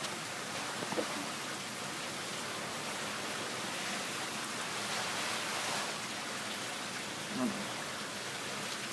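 Strong wind rushing steadily, an even hiss with no gaps.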